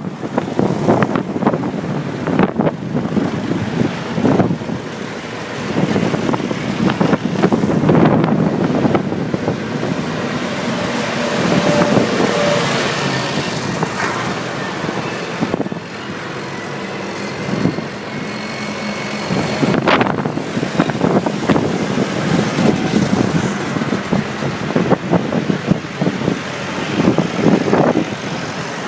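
Tractor engines running in a procession, a rough, uneven rumble that swells and fades as they go by.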